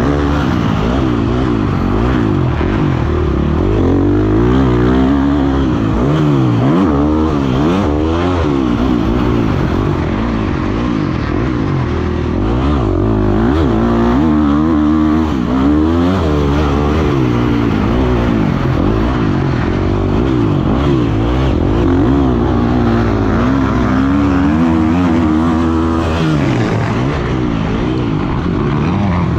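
Motocross dirt bike engine revving up and down over and over as it is ridden, its pitch rising and falling every second or two.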